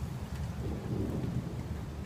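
Thunder rumbling low and steady in a rainstorm, with rain falling and a few faint drop ticks.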